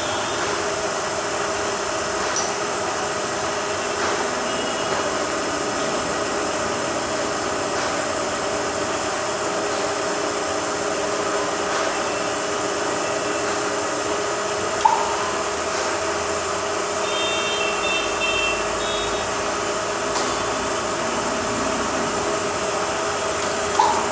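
Milling machine running rapid traverse moves on its three axes: a steady mechanical hum and whine, with a few short high beeps and two sharp clicks, one a little past the middle and one at the end.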